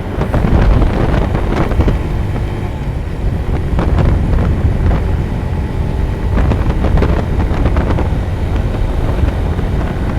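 A road vehicle running on the move, with heavy wind buffeting the microphone.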